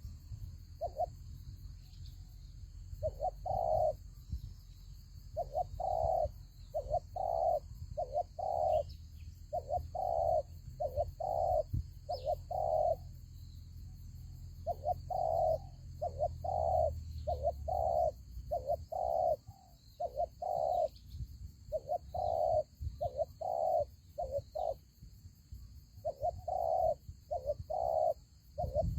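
Spotted doves cooing: short, deep coo notes repeated in phrases of several notes with pauses between, over a low rumble.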